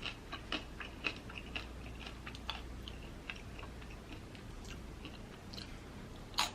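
Close-miked chewing and biting while eating a street taco: soft wet mouth sounds and scattered faint crunches, with a sharper crunch near the end.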